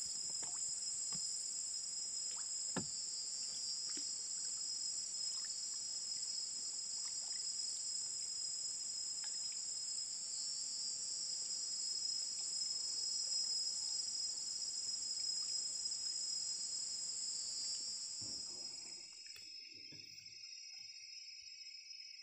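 Steady high-pitched chorus of tropical forest insects shrilling in several pitches, one of them swelling three times, with a few faint knocks. About 19 seconds in it cuts off, leaving a fainter, lower steady buzz.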